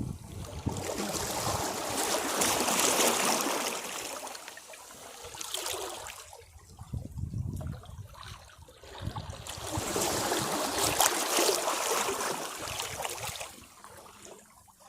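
Caribbean sea waves washing against rocks in surges: a long swell over the first few seconds, a short one around six seconds, and another long one in the second half that fades near the end, with quieter spells of trickling water between.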